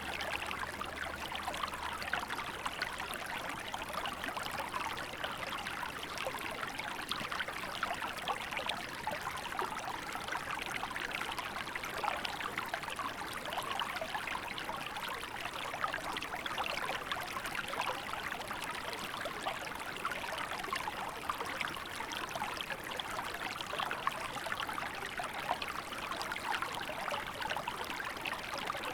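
Small river flowing: a steady rush of water with many small trickles and splashes.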